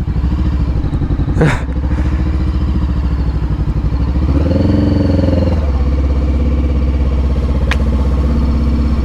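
Honda CBR500R's parallel-twin engine running at low speed, a steady low rumble, with a brief rise and fall in revs about halfway through and a sharp click near the end.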